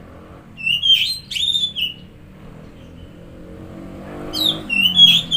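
Oriental magpie-robin (kacer) singing: two short bursts of loud whistled phrases with notes that slide up and down. Each burst lasts about a second, and they come about three seconds apart, over a faint low hum.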